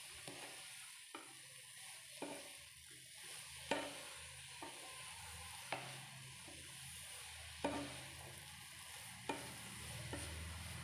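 Grated carrots frying in ghee in a nonstick kadai with a soft steady sizzle, while a flat spatula stirs them, knocking sharply against the pan every second or so.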